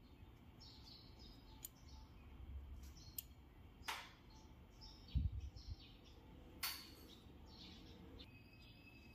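Birds chirping in the background, with several sharp clicks and a dull low thump about five seconds in, likely from tools or parts being handled during spark plug work.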